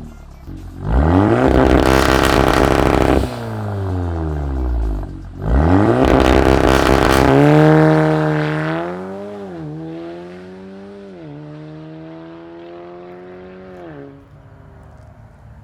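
VW Golf 7.5 R's turbocharged 2.0-litre four-cylinder through a Hurricane 3.5-inch valved stainless exhaust, revved hard twice, the pitch falling away after each rev. The engine then holds a steady note with two brief dips in pitch before fading out near the end.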